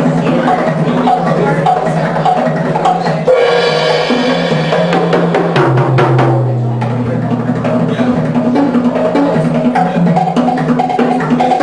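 Live drum and percussion music: a fast, steady pattern of knocks over a low repeating tone. A long held higher note comes in about three seconds in, followed by a lower tone sliding down.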